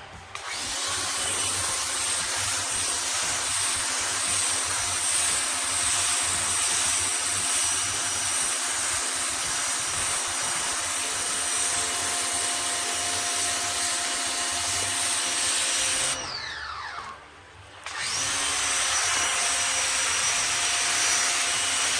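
Greenworks GPW1602 electric pressure washer running under load, its motor and pump whining steadily under the hiss of the water jet from the 40-degree nozzle hitting concrete. About 16 seconds in, the spray stops and the motor winds down, then about two seconds later it starts again and spraying resumes.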